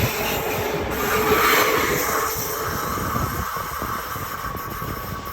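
Triple-coupled BLS RABe 528 MIKA electric multiple unit pulling away, its wheels rumbling and hissing on the rails with a faint steady whine, the sound slowly fading.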